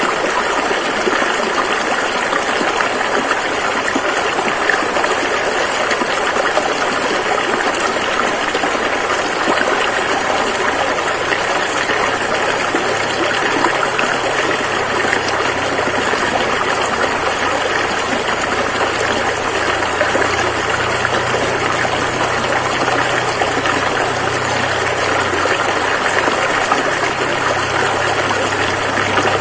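Rushing river: the steady, unbroken noise of fast-flowing water. A low, steady hum comes in about ten seconds in and grows stronger toward the end.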